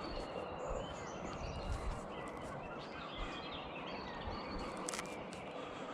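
Steady outdoor background noise with faint bird chirps scattered through it. A single sharp click comes about five seconds in.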